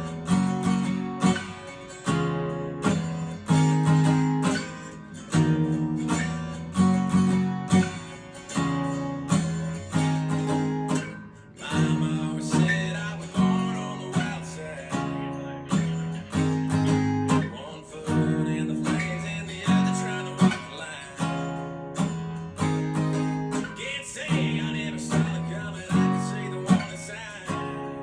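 Acoustic guitar strummed in a steady rhythm, playing the chord progression E♭ minor, G♭, D♭, A♭.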